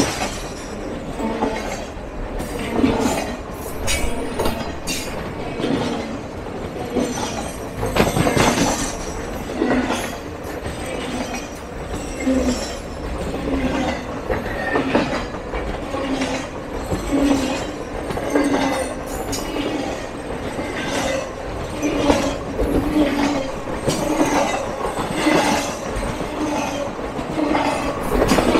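Norfolk Southern Triple Crown RoadRailer train rolling past close by: steady wheel-and-rail noise, with irregular clicks as the bogie wheels cross rail joints.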